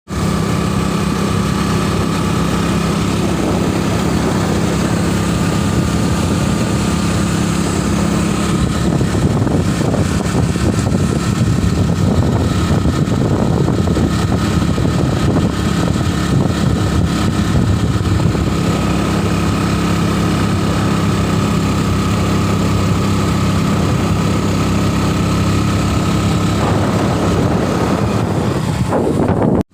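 A vehicle engine running steadily under way, with road and wind noise, heard from on board; it cuts off abruptly at the end.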